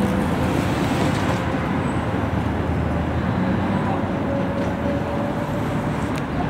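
Slow-moving work train: a diesel locomotive engine runs with a steady rumble as the rail cars roll along the track.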